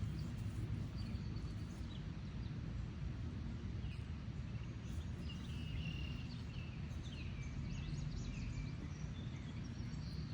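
Outdoor ambience: a steady low rumble, with small birds chirping faintly from about four seconds in.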